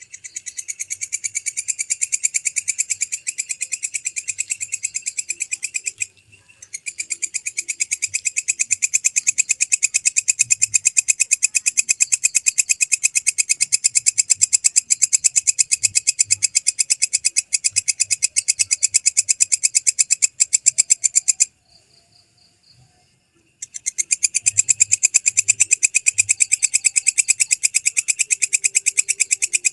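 Walang kecek bush cricket (katydid) stridulating: a loud, fast, evenly pulsed buzzing trill that stops briefly about six seconds in, pauses for about two seconds later on, then starts again.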